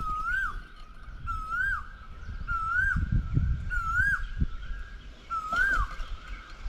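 A bird repeating a single whistled note that rises and then drops sharply, five times about a second apart with a longer pause before the last, over a low uneven rumble.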